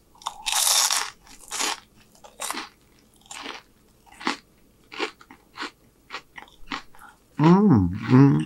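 Close-miked mouth biting into and chewing a crunchy fried morsel: one loud crunch of the first bite, then a run of shorter crunches as it is chewed. Near the end a drawn-out voiced hum.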